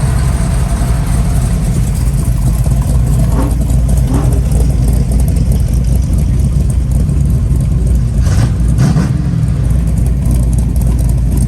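A car engine running at low speed, a steady deep rumble, with a few brief faint higher sounds around the middle and about eight seconds in.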